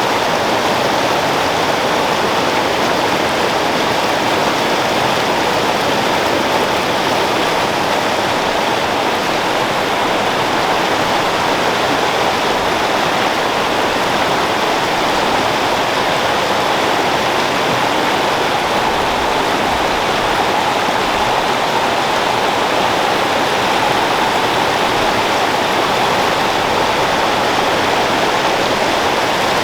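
Creek water flowing and splashing steadily over rocks, a constant rushing.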